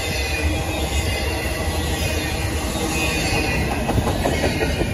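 Cars of a fast intermodal freight train, double-stack container well cars and trailer flatcars, rolling past: a steady, loud rumble of steel wheels on the rails.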